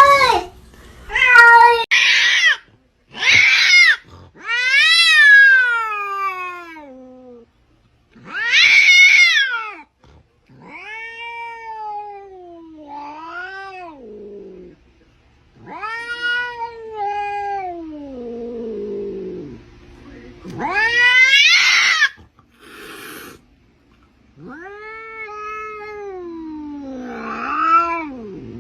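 A cat meowing over and over in long drawn-out calls, about a dozen of them with short pauses between, several sliding down in pitch as they end.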